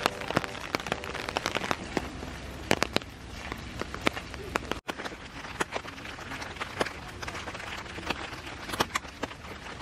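Steady rain falling, with many irregular sharp taps of individual drops.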